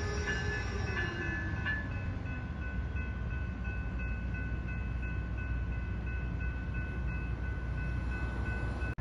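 A train running past with a steady low rumble, along with several high, thin steady tones that pulse during the first two seconds and then hold.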